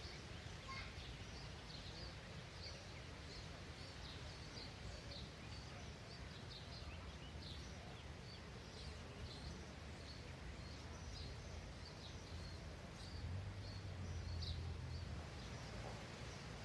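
Small songbirds chirping faintly and often over a low outdoor rumble, which swells a little near the end.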